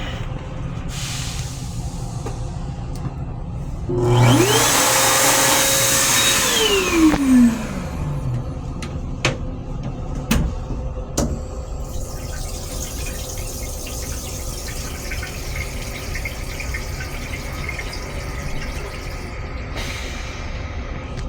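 An electric motor in a rail car restroom fixture spins up with a loud rush, runs for about three seconds, then winds down in pitch and stops, over the steady rumble of the moving train. A few sharp clicks follow soon after.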